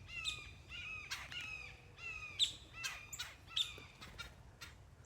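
Wild birds calling: a rapid series of short, harsh calls, about two to three a second, each with a slightly falling pitch, with sharp clicks among them.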